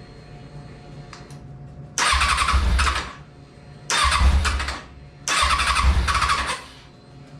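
A 2003 Kawasaki Ninja ZX-6RR's inline-four is cranked on the electric starter in three short bursts of about a second each, and it does not catch. The bike is being tried on a newly fitted fuel pump with the choke off.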